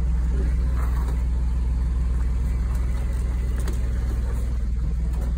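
Jeep's engine running steadily at idle, a low even drone with no revving.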